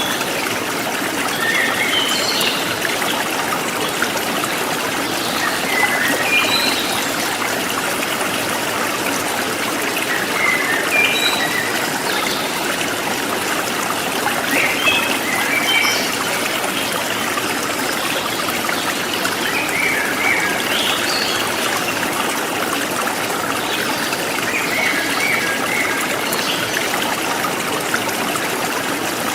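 River stream flowing over its bed: a steady rush of running water with a constant trickle.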